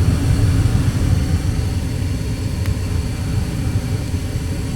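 Gas furnace running with its burners lit after a gas valve replacement: a steady low rumble with a faint hum above it.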